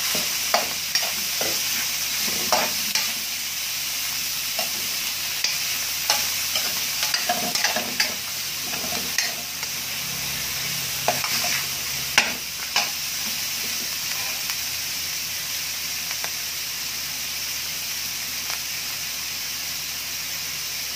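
Raw ground beef frying and sizzling in oil in a metal wok with garlic and onion, stirred with a metal ladle that scrapes and clinks against the pan. The clinks stop about thirteen seconds in, and the sizzle carries on steadily.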